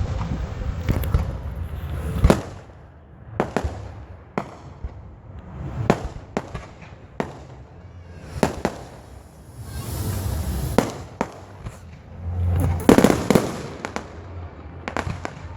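Fireworks going off: a string of sharp bangs at irregular intervals, a hissing rush about two-thirds of the way through, and a dense burst of crackling near the end.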